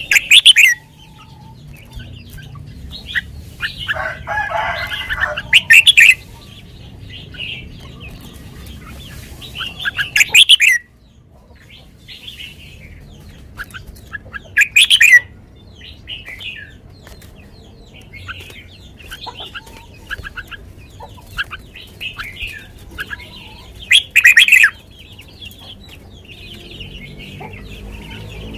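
Red-whiskered bulbul singing: five loud short song phrases a few seconds apart, with softer chirps and twitters between them.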